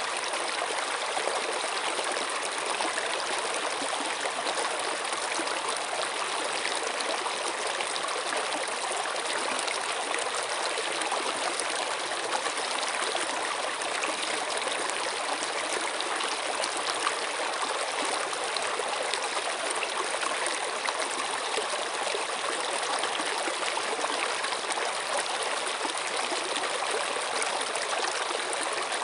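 Running water flowing steadily, an even rushing sound that keeps the same level throughout with no separate splashes.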